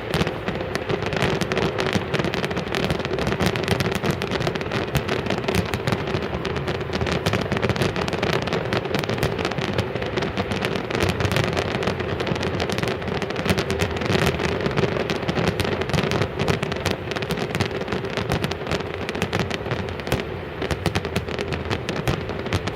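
A dense, unbroken barrage of fireworks, many bangs and crackles a second with no pause, over a steady hum.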